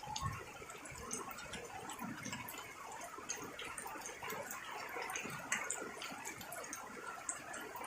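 Rain falling, with many separate drops pattering and dripping in a steady irregular scatter.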